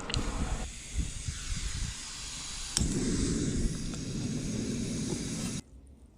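Water running from a tap in a steady hiss, splashing into a pot. The splashing gets heavier about three seconds in, and the flow stops abruptly near the end as the tap is shut off.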